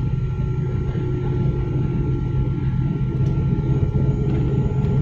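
Steady rumble of a Sriwijaya Air airliner's engines heard inside the passenger cabin, with a few faint steady whining tones over a deep drone that neither rises nor falls.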